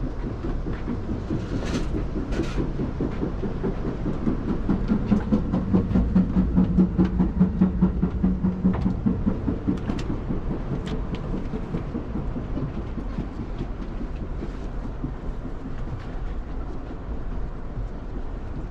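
Amtrak passenger train running, heard from inside: a steady low rumble with a rhythmic clatter of wheels on the rails. The clatter grows louder about four seconds in, with a low hum under it, then eases off.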